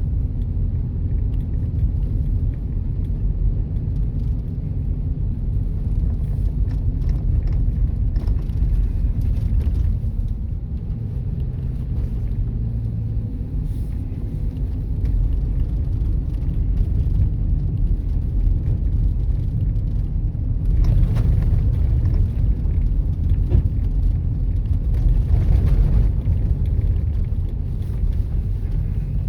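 Steady low rumble of a car driving, with road and tyre noise heard from inside the car, swelling briefly a couple of times in the second half.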